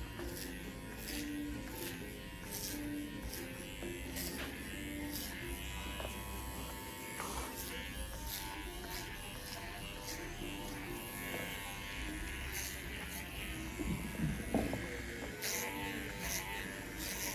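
TPOB GO electric hair clippers buzzing steadily as they cut hair, with background music playing.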